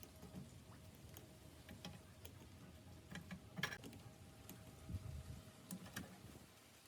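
Faint, scattered clicks and light taps, a couple of them sharper about three and a half and five seconds in, over a faint steady hum.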